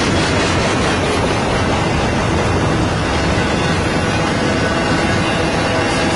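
Freight train passing close by: a loud, steady rumble of rail cars rolling over the track.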